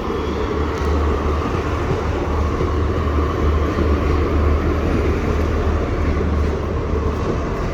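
Northern Ireland Railways diesel multiple-unit train running through the station level crossing: a steady, loud rumble.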